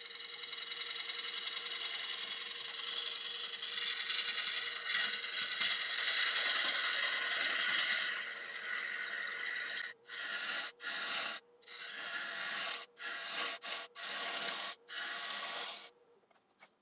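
Turning tool cutting a spinning Iroko platter blank on a wood lathe, removing wood in one long continuous cut for about ten seconds, then a series of short cuts with brief pauses between them. A faint steady hum from the lathe runs underneath.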